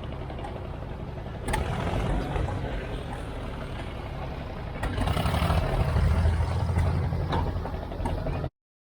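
Tractor engine running with a steady low rumble. It gets louder about five seconds in, then cuts off suddenly near the end.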